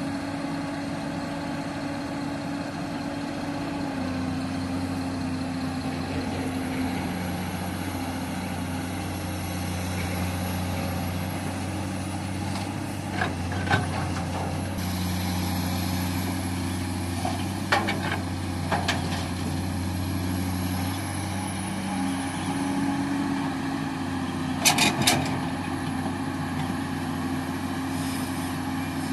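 Heavily loaded BharatBenz truck's diesel engine running at low, fairly steady revs, its pitch shifting slightly now and then. A few short, sharp clicks come about halfway through, and a brief cluster near the end.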